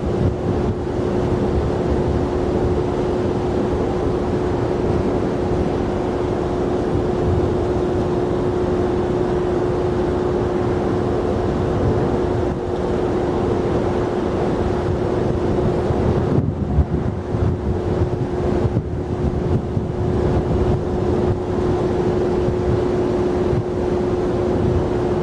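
Airliner jet engine noise: a steady, loud low rumble with one steady droning tone through it, and wind on the microphone.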